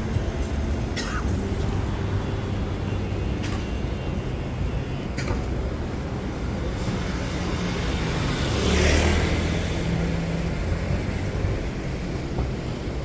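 City street traffic: a steady rumble of car engines and tyres, swelling as a vehicle passes close about nine seconds in. A few sharp clicks sound in the first five seconds.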